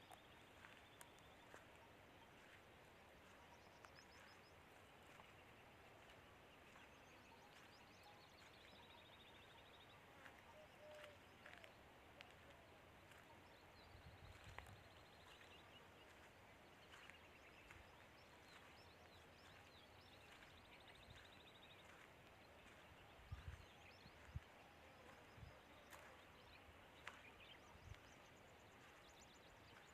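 Very quiet outdoor ambience with faint, distant bird calls: short chirps and descending trills every few seconds. A few soft low thumps come about three-quarters of the way in.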